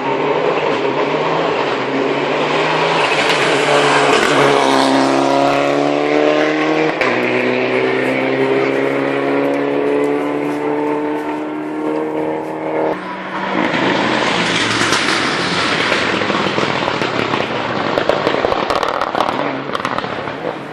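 Rally car engine under hard acceleration: the revs climb, drop with an upshift about seven seconds in, then climb again until the throttle is cut about thirteen seconds in. Loud rushing noise of a car passing swells around four seconds in and again near the end.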